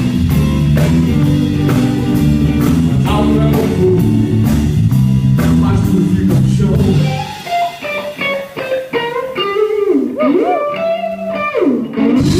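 Live rock band playing, with an electric guitar solo over bass and drums; about seven seconds in the rhythm section drops out and the guitar plays alone with wide string bends, and the full band comes back in at the end.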